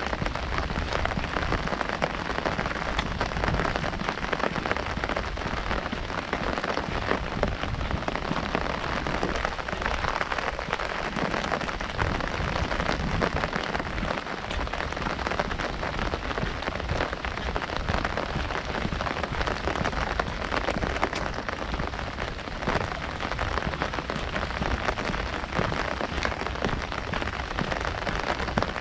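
Heavy rain drumming on an umbrella overhead: a steady, dense patter of drops.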